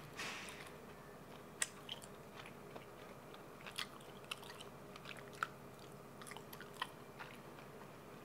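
A person chewing a thin slice of cured Iberico ham, with faint, scattered wet mouth clicks and lip smacks and a brief rush of noise at the start as the slice goes in.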